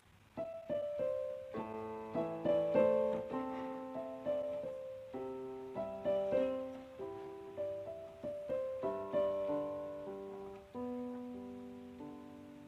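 Gentle background piano music: a slow melody over soft chords, each note struck and left to fade.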